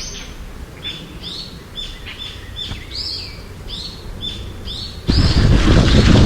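Songbirds chirping in a quick series of short, repeated calls, about two a second. About five seconds in, a loud low rushing noise sets in suddenly and stays.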